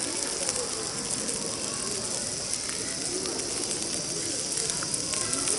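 Open-air ambience of distant voices with a steady high hiss and scattered faint clicks.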